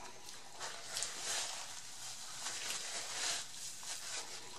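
Soft, uneven crunching from chewing a hard-shell taco close to the microphone, with a paper napkin rustling as the face is wiped near the end.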